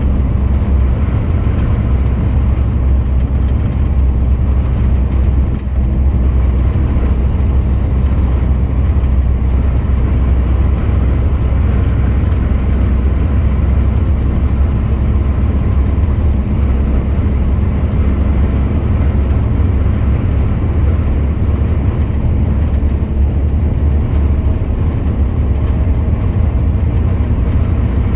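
Truck driving at a steady speed: engine and road noise running evenly, deep and unbroken.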